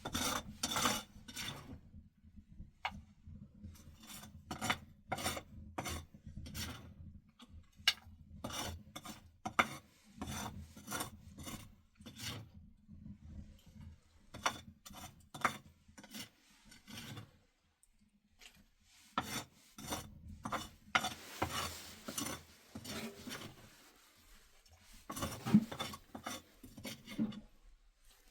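Repeated rasping, rubbing strokes in runs, with short pauses between the runs.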